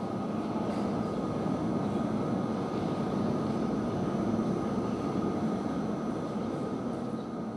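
Low rumble of a train moving in the station, with a faint steady whine. The rumble swells over the first few seconds, then slowly fades.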